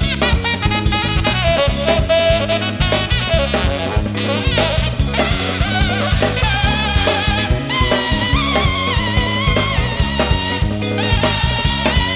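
Jazz-funk band music: a drum kit keeping a steady groove under a bass line, with saxophone and brass playing the melody.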